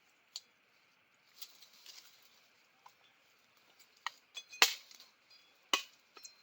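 Sharp knocks of a sharpened stick being driven into the ground, about five strikes in the second half, some with a brief metallic ring. Rustling and scraping come before them.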